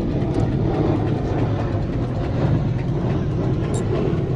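A car engine running steadily. It is most likely the Nissan Altima's engine, running after being brought back to life.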